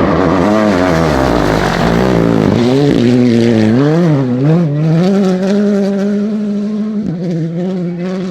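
Rally car engine at full load, the revs rising and falling quickly in the first half with throttle lifts and shifts, then held at a steady high pitch, broken briefly by a gearshift near the end.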